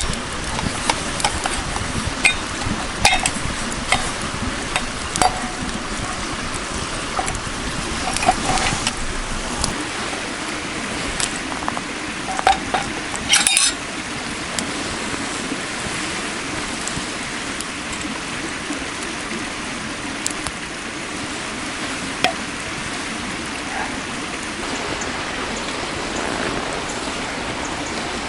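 Steady rush of flowing water with scattered light clinks and clicks from camp cookware, including a quick cluster of clatter about halfway through.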